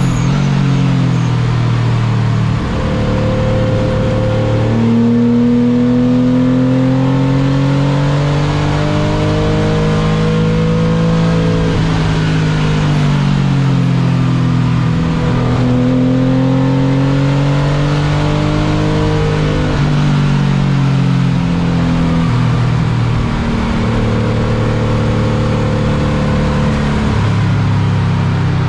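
Car engine at high load on a racetrack lapping session, its pitch climbing in long sweeps and dropping back several times as it accelerates, lifts and shifts.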